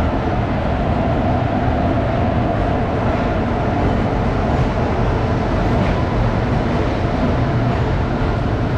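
Passenger train running on the rails with a steady, loud rumble of wheels and coaches. A faint whine sounds over it for the first few seconds, then fades.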